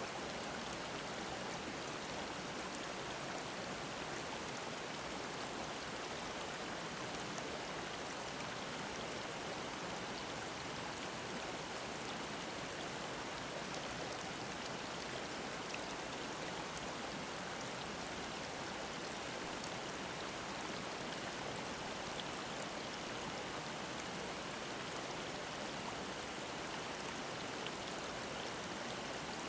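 Mountain stream babbling steadily over rocks, a continuous even rush of water.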